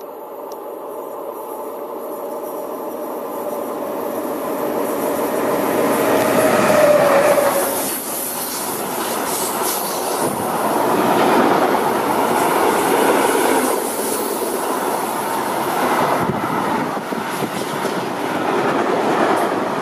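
Container freight train passing close by. The noise builds as it approaches and peaks with a humming tone that breaks off about eight seconds in. The container wagons then roll past with steady wheel noise and clatter.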